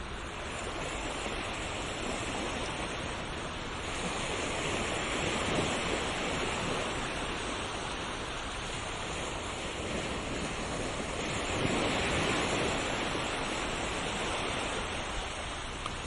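Ocean waves breaking and washing on a shore: a steady rush of surf that swells twice, about 4 and 11 seconds in, then ebbs.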